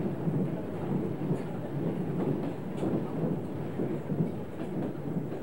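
Steady rumble of a moving passenger train heard from inside the carriage, the wheels running on the rails.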